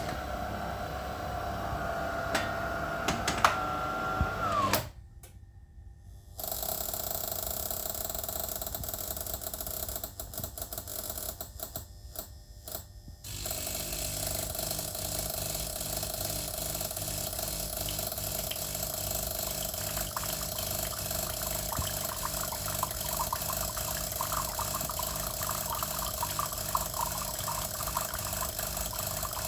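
A DeLonghi appliance's motor running with strange mechanical noises: a steady hum with a tone that glides about four seconds in, two quieter spells with rattling, then steady running with light crackling clicks.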